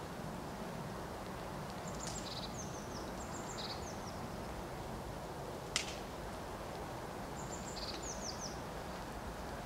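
A songbird sings two phrases of short, high, falling chirps, about two seconds in and again near the end, over steady rural background noise. A single sharp click comes in between.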